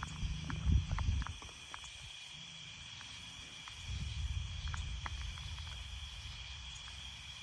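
Steady high-pitched chorus of night insects such as crickets or katydids, with scattered faint ticks. Two stretches of low rumbling sit under it, a short one right at the start and a longer one about four seconds in.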